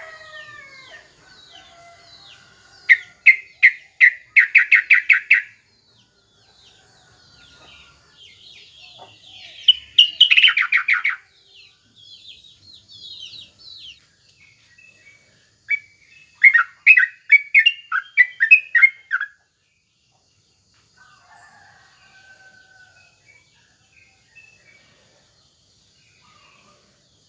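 Yellow-vented bulbul (trucukan) singing in three bouts of fast, repeated bubbling notes a few seconds apart, the third about halfway through, with fainter chirps of other small birds in between.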